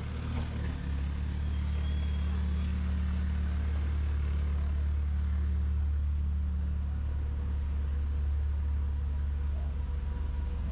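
Road vehicle engine idling with a steady low rumble that eases slightly near the end.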